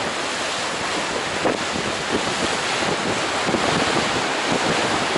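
Steady wind rushing over the microphone aboard a moving river cruise boat, with the wash of the water beneath.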